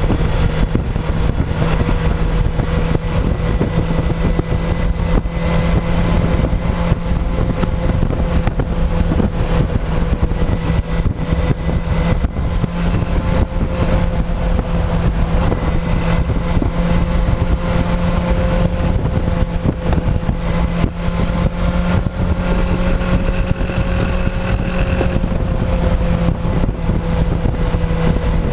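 Motorcycle engine running at a steady cruising speed, its pitch holding nearly constant, over a dense low rumble of wind and road noise.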